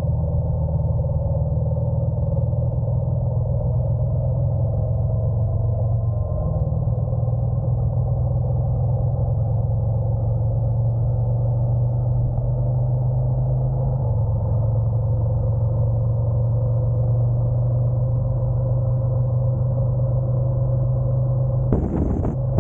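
Honda NC750X motorcycle's parallel-twin engine running steadily at cruise, a low drone that shifts slightly about six seconds in and again around fourteen seconds. Near the end wind starts buffeting the microphone.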